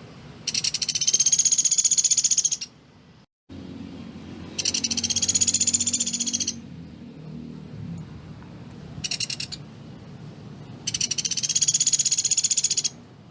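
Pelatuk beras, a small woodpecker, calling in fast, dense, high-pitched trills. There are three trills of about two seconds each, with a short one between the second and third.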